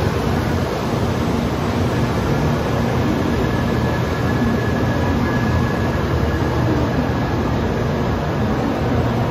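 Type 923 "Doctor Yellow" Shinkansen inspection train moving slowly along a station platform: a steady low rumble with a faint thin high whine over it.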